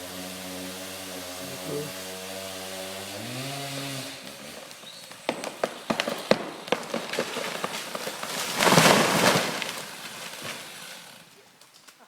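Chainsaw idling steadily, then revving briefly and cutting off about four seconds in. The felled tree's trunk then gives a string of sharp cracks as the wood breaks, and about nine seconds in the big tree crashes to the ground in a loud rush of branches that dies away.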